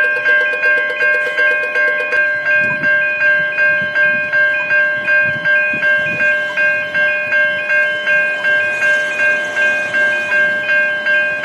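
Level crossing bell ringing steadily, about two strokes a second. A low rumble of an approaching train joins about two seconds in.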